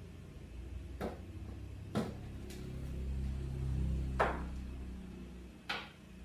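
Four short, sharp clicks or knocks, the loudest about four seconds in, over a low steady hum.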